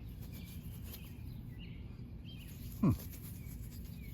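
Faint bird chirps over a steady low outdoor background hum, with one short sound sliding quickly down in pitch just before three seconds in.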